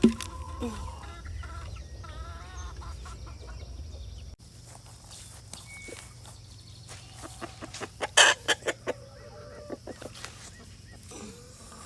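Backyard chickens clucking, with a quick run of sharp taps or flutters about eight seconds in that is the loudest sound. A low rumble underneath stops abruptly about four seconds in.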